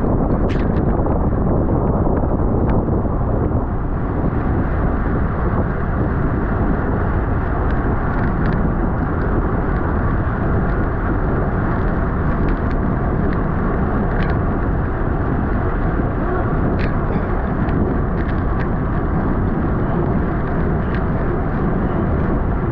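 Steady, loud wind noise rushing over the microphone of a camera on a bicycle ridden at race speed, with a few faint clicks scattered through.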